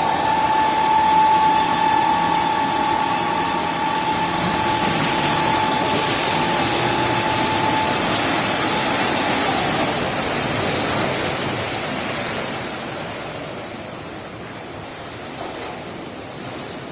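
A steady high-pitched tone holds for about ten seconds and then drops away, over a continuous rushing noise that slowly fades near the end.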